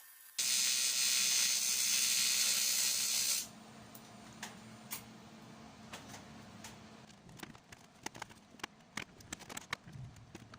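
A loud spray-like hiss of pressurised gas or air, about three seconds long, cutting off abruptly. It is followed by faint scattered clicks and ticks.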